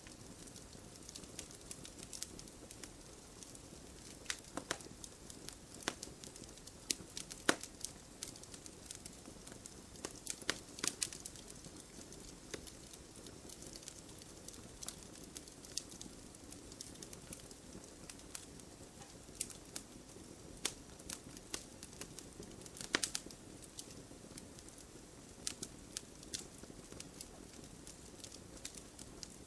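Wood campfire burning, with irregular sharp crackles and pops over a steady soft rush of flame, a few louder pops standing out now and then.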